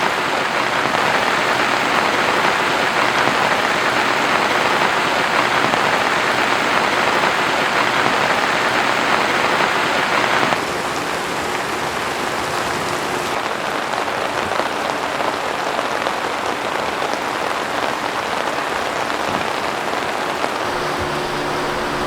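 Heavy rain pouring down, a dense, even hiss for about ten seconds. It then drops abruptly to a softer rainfall. Near the end a low steady hum joins in.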